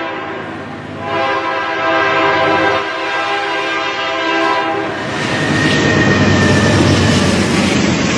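Freight locomotive horn sounding a few long blasts. After about five seconds its chord gives way to the louder, steady rumble and rail noise of the train passing, with a brief thin high squeal around six seconds.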